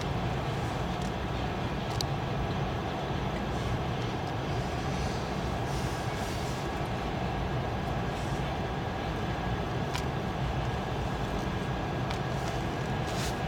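Freight train of green open wagons rolling steadily past, a continuous running noise of wheels on rails with a few sharp clicks, heard from inside a car.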